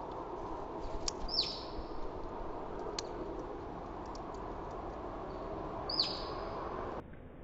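A songbird calling twice, about five seconds apart: each call is a high whistled note that drops sharply in pitch. Behind it is a steady background rumble and hiss, with a few sharp clicks.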